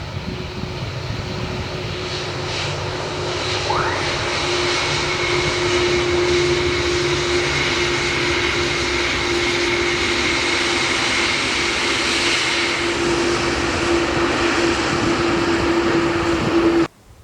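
Jet airliner engines passing close by, loud and steady with a humming tone and a high whine, growing louder over the first few seconds. The sound cuts off abruptly near the end.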